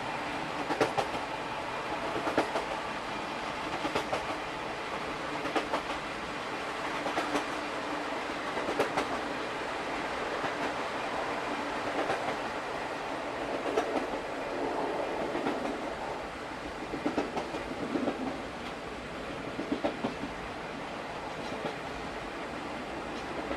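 Rail-joint clatter from an old-type SuHaFu 42 passenger coach rolling on jointed track, heard at the coach end: a clack about every one and a half seconds over a steady rolling rumble.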